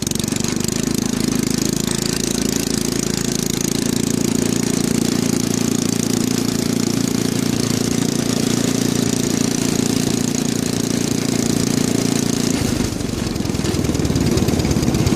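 Go-kart's small engine running at steady throttle through a modified exhaust, with a steady drone that changes about twelve and a half seconds in, dipping briefly and then building again near the end.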